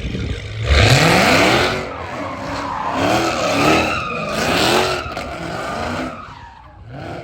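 Car engine revving hard while its tyres spin and squeal in a burnout, the revs climbing about a second in and then rising and falling several times before dying down near the end.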